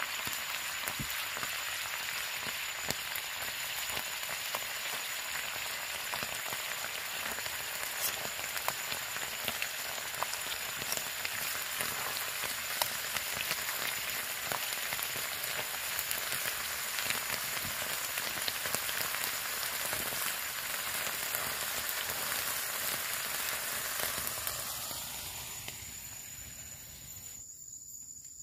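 Heavy rain falling as a dense, steady hiss with fine pattering crackles, fading away near the end.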